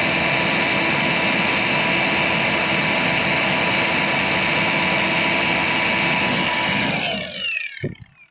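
Angle grinder fitted with a blower fan attachment running at full speed and blowing air, with a steady whine over the rush of air. About seven seconds in it is switched off and winds down, its whine falling in pitch, and a short knock follows near the end.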